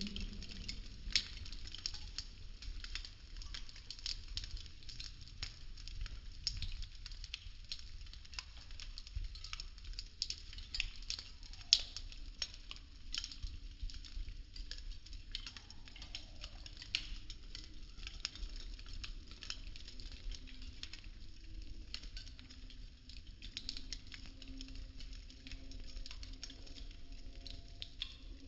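Burning popsicle sticks crackling, a dense run of small dry pops, with two sharper pops standing out, one about a second in and one near the middle.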